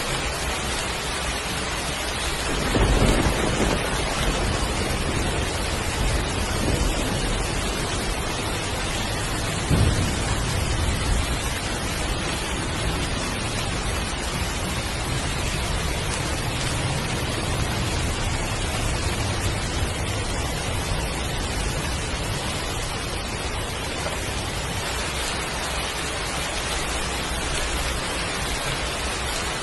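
Heavy rain falling steadily, with rumbles of thunder about three seconds in and again about ten seconds in, and a fainter roll of thunder some seconds later.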